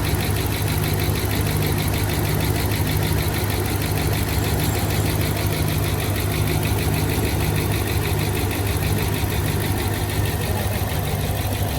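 Dodge Ram Hemi V8 idling steadily with a fast, even ticking from the valvetrain. The ticking comes from the hydraulic lifters still filling with oil after the faulty MDS lifter was replaced, and the engine is settling into an even rhythm.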